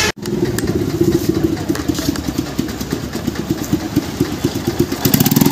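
Motorcycle engine idling with a steady, even beat, a little louder near the end.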